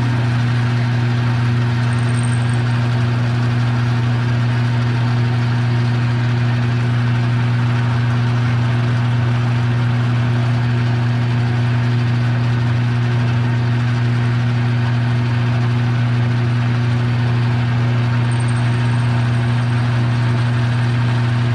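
Metal lathe running steadily with a constant low motor hum while a set of nuts mounted on it is turned down into rings.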